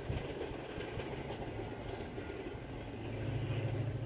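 Train running along the track out of view: a steady rail noise with faint wheel clatter and a low hum that swells near the end.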